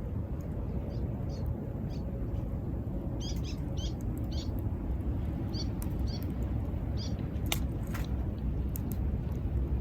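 Steady low rumble of surf with short, high bird chirps repeating in small groups over it. Two sharp snaps come about seven and a half and eight seconds in, like wood cracking in a campfire.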